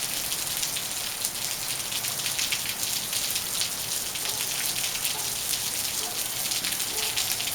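Steady rain falling on a back patio: a dense, even hiss with many individual drops pattering through it.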